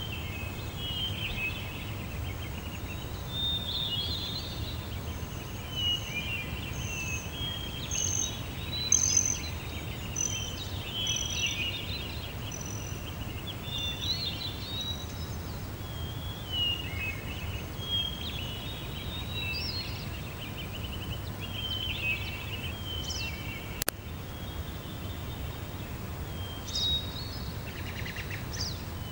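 Several birds chirping and singing in short, overlapping calls and trills, over a steady low background rumble, with a single sharp click late on.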